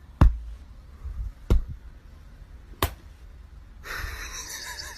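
Three sharp thumps about a second and a half apart, each followed by a brief low rumble; a steady hiss of background noise comes in near the end.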